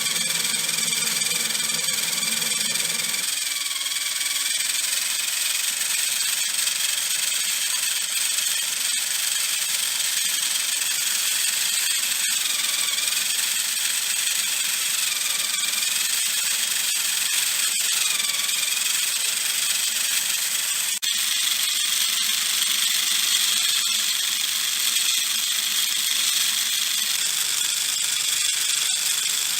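Small electric motor driving a homemade PVC model gearbox, running continuously with a high whine whose pitch wavers slightly. A lower hum drops out about three seconds in.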